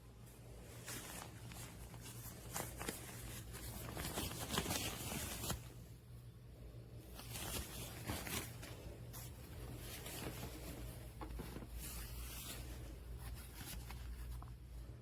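Handling noise: irregular rustling and small clicks, like fabric being moved about, over a low steady hum.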